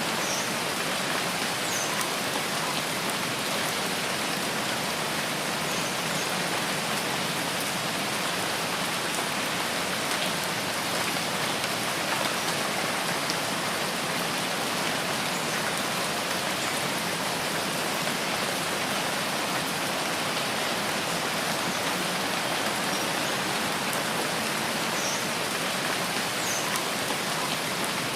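Steady, dense rainfall in a rainforest, an even hiss of drops with no let-up, with a few faint, short high chirps now and then.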